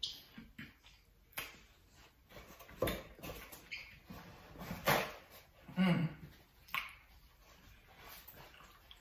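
Close-miked eating of a seafood boil: irregular chewing, lip smacking and wet mouth clicks, with a couple of short voiced murmurs about five and six seconds in.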